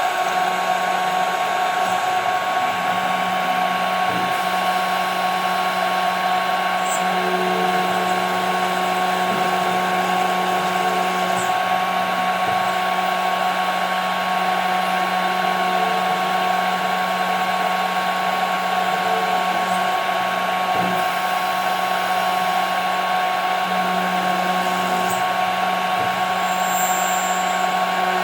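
CNC router spindle running at a steady high speed with a constant whine, milling 5 mm plexiglass.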